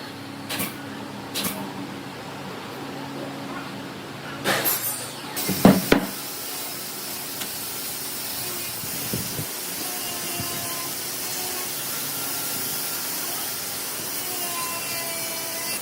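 Workshop tool sounds on wood: a few short rasping strokes over a low hum, two sharp knocks about six seconds in, then a steady hiss for the rest.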